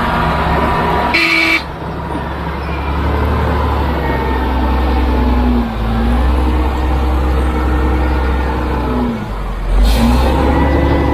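Heavy diesel machinery running under load, its engine note dipping and recovering a few times, with abrupt changes about a second and a half in and near the end.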